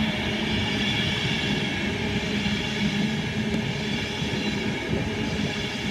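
Class 390 Pendolino electric train passing slowly through the station: steady running rumble with a low, even hum.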